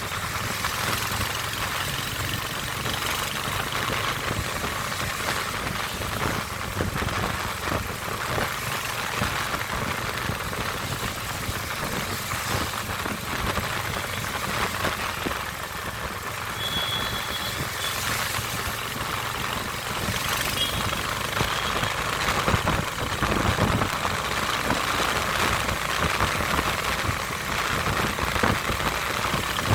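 Royal Enfield Hunter 350's single-cylinder engine running steadily.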